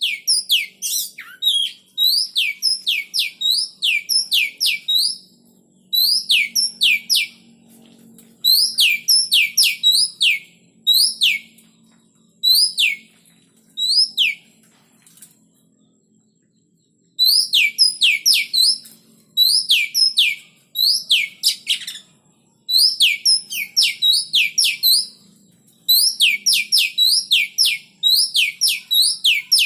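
Oriental magpie-robin calling in quick bouts of short rising whistled notes, several a second, with a pause of a couple of seconds about halfway through.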